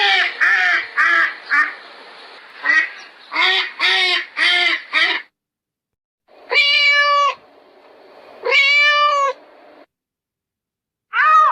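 Geese honking in a quick run of about eight short calls, then a pause and two long, even-pitched calls from another animal about a second each.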